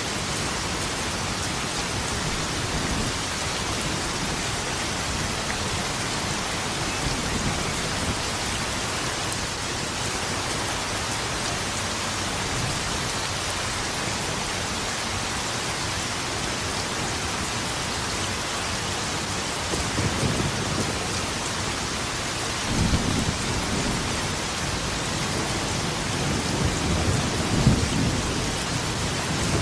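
Steady heavy rain falling, with low rolls of thunder rumbling in several times in the last third.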